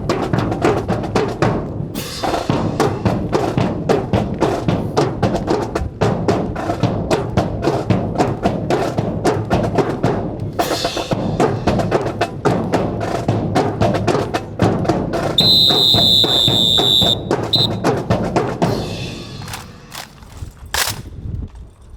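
A marching drill band plays fast snare and bass drum patterns with music. A steady piercing high tone holds for about two seconds about three-quarters through. The playing stops about 19 seconds in, leaving a few sharp single strikes.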